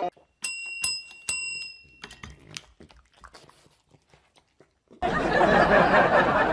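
Two ringing, bell-like metallic dings about a second apart, followed by scattered faint clicks and taps, then a loud steady noise that starts suddenly about five seconds in.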